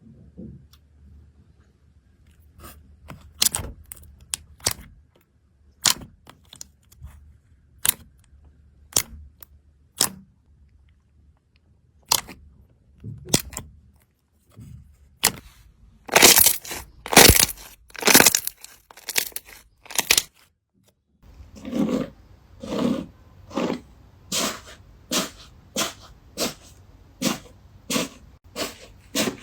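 Crunchy slime being pressed and handled, giving sharp scattered cracks and a dense run of louder crackling partway through. After a cut about two-thirds in, rhythmic squishing pops come about one and a half a second.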